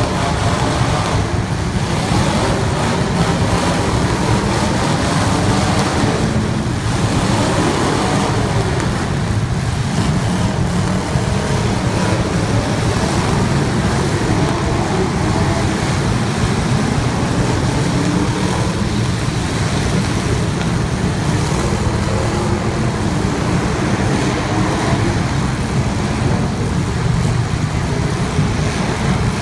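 Several race cars running laps together, a dense engine noise with pitches that rise and fall as the cars accelerate and lift off.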